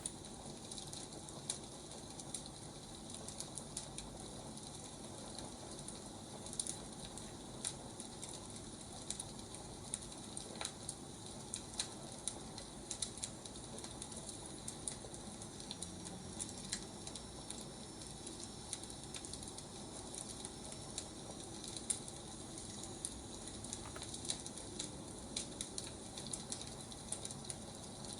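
Firewood burning, with irregular crackles and pops over a steady hiss.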